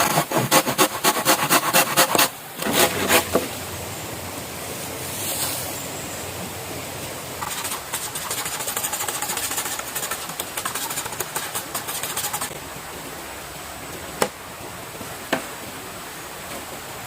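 A hand tool working wood or bamboo in quick rasping strokes, in two short bouts and then a longer run of finer, faster strokes, followed by two single sharp knocks, over a steady background rush.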